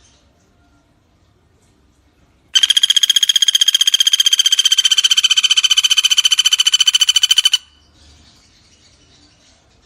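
Common flameback woodpecker (pelatuk bawang) giving one long, rapid rattling trill of about five seconds, even in pitch. It starts about two and a half seconds in and cuts off abruptly.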